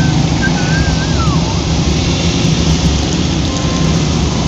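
Heavy rain beating on a car's roof and windscreen, heard from inside the cabin over a steady low rumble.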